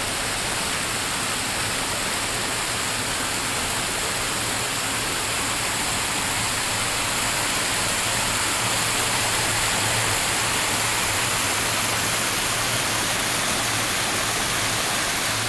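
Waterfall rushing, a steady, unbroken sound of falling water.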